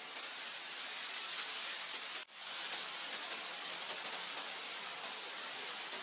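Steady wind blowing through grass, an even airy hiss with no gusting. About two seconds in it cuts out for an instant and swells back in.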